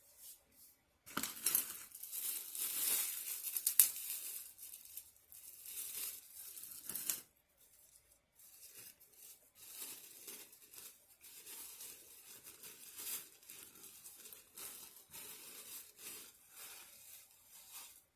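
Takeout food packaging being torn open and crinkled by hand. A loud stretch of tearing and rustling comes first, then lighter, intermittent crinkling and handling.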